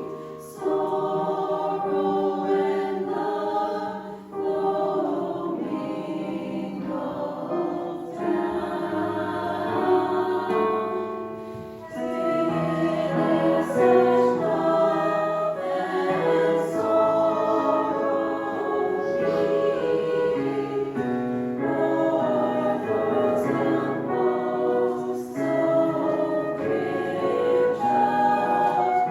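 A choir singing with several voices at once, holding notes that change throughout.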